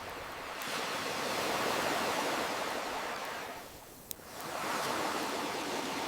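Ocean waves washing up and drawing back: one surge swells about a second in and ebbs to a lull near four seconds, then the next wave builds. In the lull a single sharp pop from a crackling campfire.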